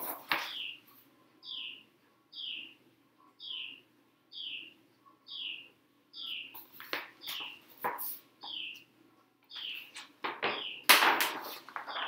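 A bird chirping over and over, one short falling chirp about every two-thirds of a second. A few knocks come in the second half, and a louder rustle about eleven seconds in.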